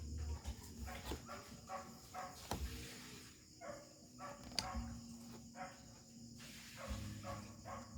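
An animal's repeated short pitched cries, several a second in runs, with a few sharp clicks among them.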